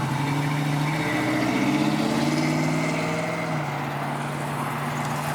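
A car's engine and exhaust run at low speed as it pulls past, the pitch rising a little and then dropping back about three and a half seconds in.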